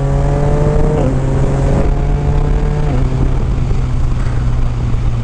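Yamaha Niken's 847 cc three-cylinder engine breathing through an Akrapovic exhaust with its baffle removed, accelerating hard and upshifting with the quickshifter. The engine note climbs, then drops sharply at each shift, about a second in and again about three seconds in, and then holds steadier.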